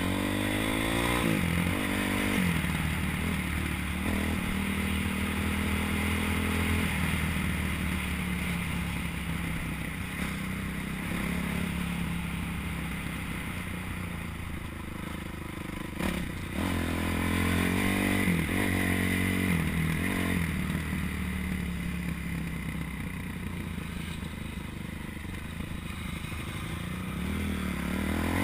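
Motocross motorcycle engine revving up and falling back again and again through gear changes, with a sharp knock about halfway through.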